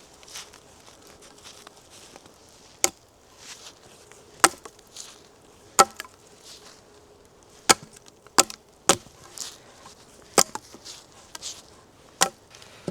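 Wood being chopped: about eight sharp strikes at uneven intervals, a few of them close together near the middle, with softer rustling between them.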